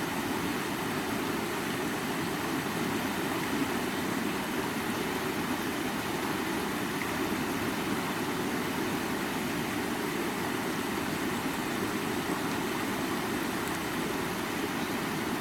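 Stream water flowing: a steady, unbroken rush, heaviest in its lower register.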